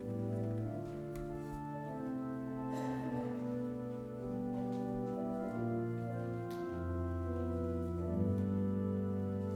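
Church organ playing slow, sustained chords as the introduction to a chanted psalm, coming in suddenly out of silence.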